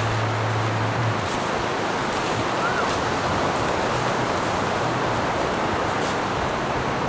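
High surf washing onto a beach under a steady rush of strong wind.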